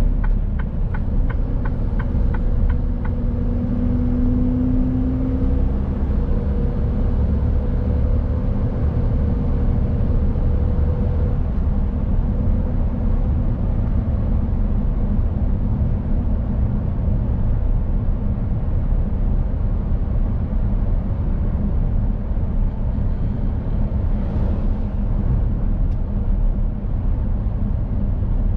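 Mercedes-Benz Actros truck on the move: a steady low rumble of engine and road noise. A short run of even ticks sounds in the first few seconds, and a steady hum stands out briefly around five seconds in.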